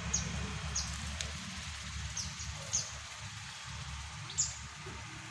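Tame kaso-kaso bird giving short, high chirps that drop quickly in pitch, half a dozen or so at uneven intervals, over a low steady rumble.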